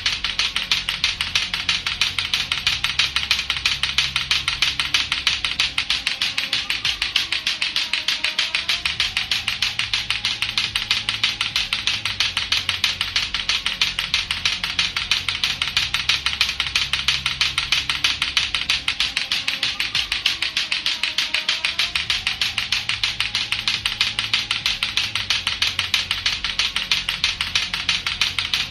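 Latto-latto clacker balls, two hard plastic balls on a string, knocking together in a rapid, steady, unbroken clacking.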